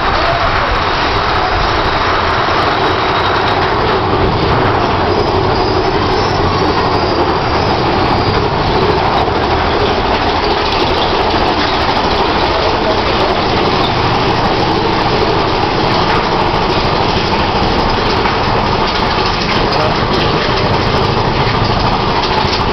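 Mine-train roller coaster running along its track, heard from on board: a loud, steady rumble and rattle of the train.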